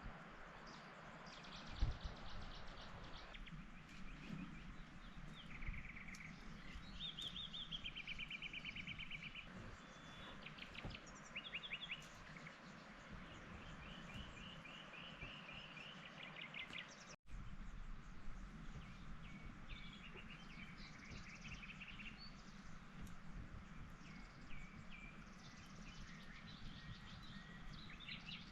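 Birds singing over a steady background hiss: repeated short trills and chirps from more than one bird. There is a dull thump about two seconds in, and the sound cuts out for an instant about halfway through.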